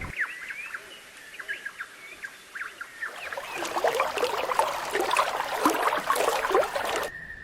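Birds calling: scattered short chirps at first, then from about three seconds in a dense chorus of many birds calling over one another, as from a flock or colony. It cuts off abruptly near the end and gives way to a steady high-pitched tone.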